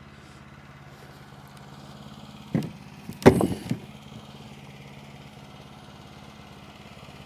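Sawmill engine idling steadily with an even low hum. A short louder sound breaks in about two and a half seconds in, and again just past three seconds.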